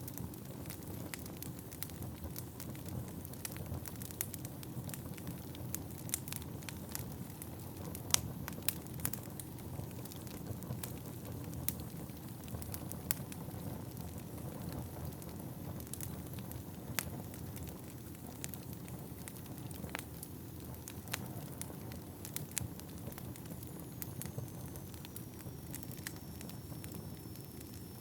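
Wood fire burning in an indoor fireplace: a steady low rumble of flames under frequent sharp crackles and occasional louder pops. A faint high whistle sets in near the end.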